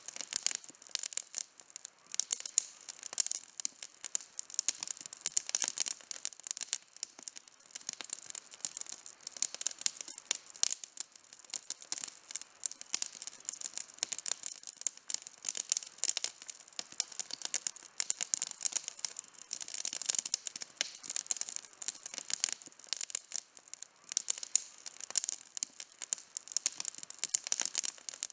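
Campfire burning: a dense, irregular run of small sharp crackles and pops.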